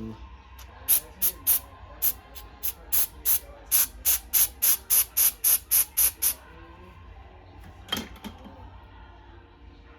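Aerosol lubricant spray can squirting in a quick run of about twenty short hisses, three or four a second, onto a stuck laptop hinge to free it, with one more short squirt near the end.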